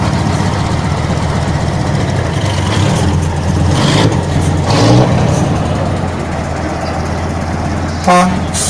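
Heavy truck engine running, revving up briefly about five seconds in, with a short horn toot near the end.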